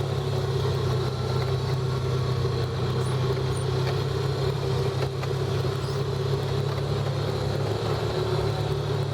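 Off-road vehicle engine running steadily at an even pitch.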